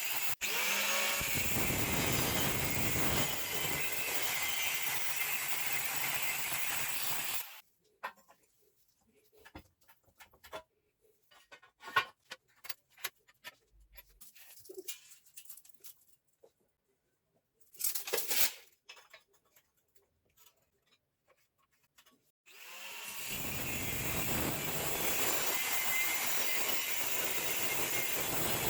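An electric-motor machine runs steadily, then stops abruptly about seven seconds in. Scattered clicks and knocks follow, then it starts again about 23 seconds in, building up over a second or so and running steadily.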